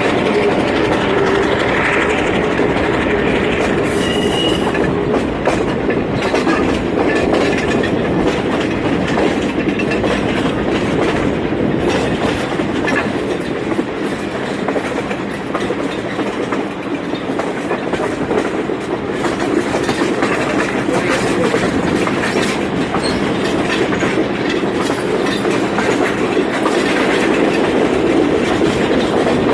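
Train running along the track: a steady rumble of wheels on rails, with many irregular clicks and knocks.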